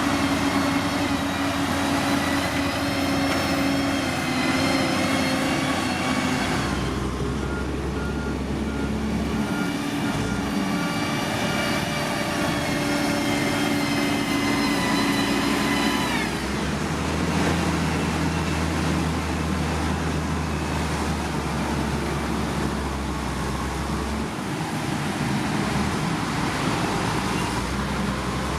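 Heavy diesel construction machinery running steadily, with engine pitch and the low hum changing abruptly several times as the sound shifts from one machine or clip to the next.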